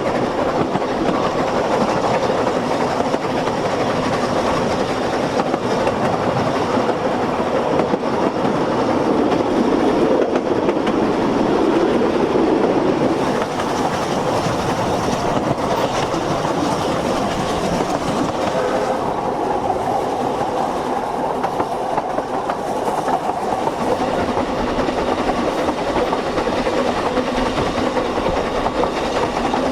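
Narrow-gauge Ffestiniog Railway train running along the line: a steady rumble of the carriages, with wheels clicking over the rail joints.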